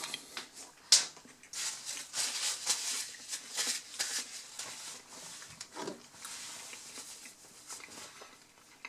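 Someone chewing a mouthful of hamburger, with a sharp knock about a second in as the half-eaten burger is set down in its cardboard box. The crackly chewing is loudest in the first few seconds and fades after.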